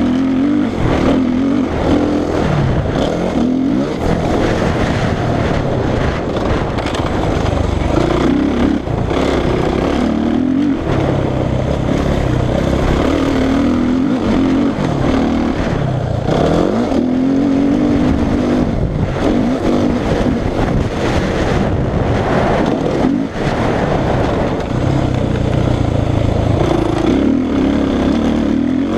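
Suzuki RM-Z450 four-stroke single-cylinder motocross engine revving hard and easing off over and over, its pitch rising and falling as the throttle is worked around the track.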